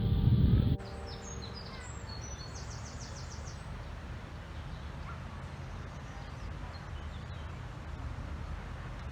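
Small birds chirping outdoors: a few short high chirps and a quick trill of rapid repeated notes in the first few seconds, over steady low background noise. Piano music cuts off abruptly under a second in.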